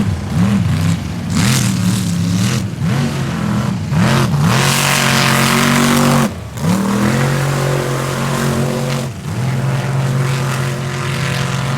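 A mud-bogging pickup truck's engine revving: quick blips up and down for about four seconds, then held at high revs under load, with a loud rushing hiss for a couple of seconds. The revs drop sharply about six seconds in, then climb and hold high again to the end.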